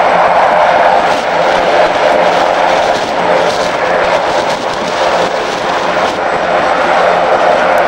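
Fixed-wing aircraft engine noise, loud and steady, easing slightly in the middle.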